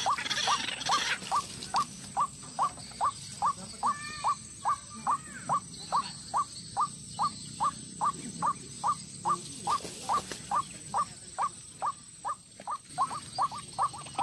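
White-breasted waterhen calling, a long unbroken run of short, sharp notes repeated about three times a second.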